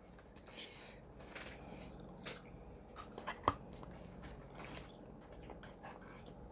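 A person eating fried chicken with their hands close to the microphone: faint, scattered chewing crunches and mouth clicks, with one sharper click about three and a half seconds in.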